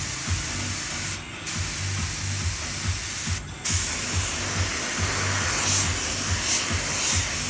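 Paint spray hissing steadily as titanium colour coat is sprayed onto a motorbike wheel, cut off briefly twice, about a second in and again at about three and a half seconds.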